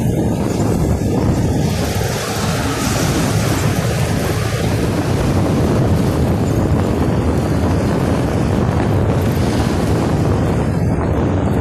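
Wind buffeting the microphone: a loud, steady rumble and hiss.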